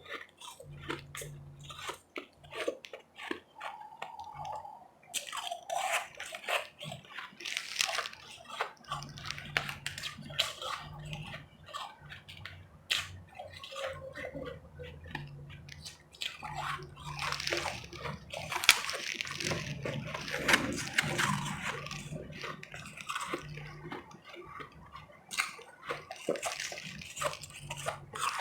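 Close-miked chewing and crunching of powdery, refrozen ice chips: a dense run of sharp, irregular crackles with wet mouth sounds.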